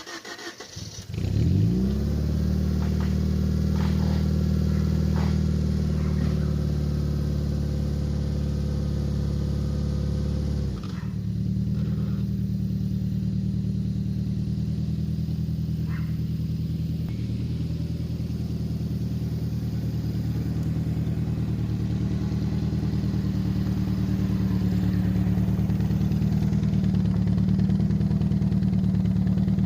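Car engine starting about a second in, its pitch sweeping up as it catches, then running at a steady fast idle. About ten seconds in the engine note drops and it settles into a lower, steady idle.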